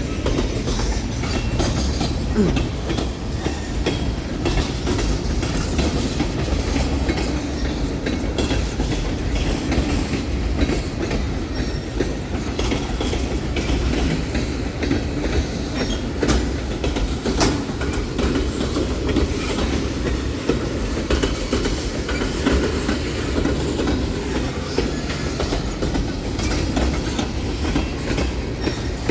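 New Orleans Public Belt freight train rolling past on a close track: a steady rumble of the cars' wheels on the rails, with scattered clicks as the wheels cross rail joints.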